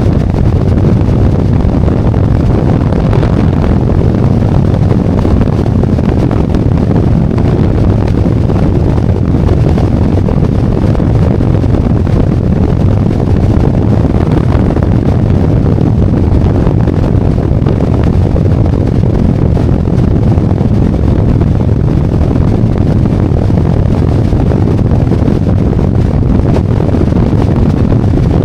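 Harley-Davidson Road Glide V-twin motorcycle under way, its engine blended into heavy, steady wind rush on a helmet-mounted camera's microphone.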